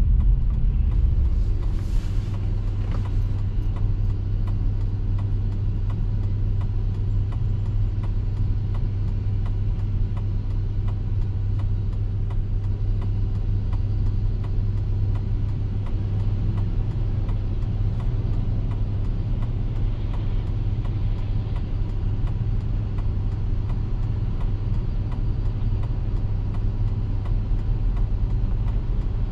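Steady low rumble of a car driving, engine and road noise heard from inside, even throughout, with a brief hiss about two seconds in.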